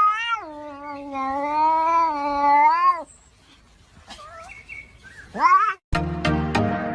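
A cat yowling: one long, wavering call of about three seconds, then a short rising meow. About six seconds in it cuts off suddenly and electronic dance music with a steady beat starts.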